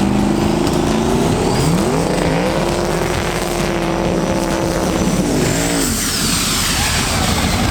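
Drag racing car making a full-throttle pass: the engine climbs in pitch, dips and climbs again at a gear change, and holds high. About six seconds in, its pitch drops away, followed by a high whine that falls steadily.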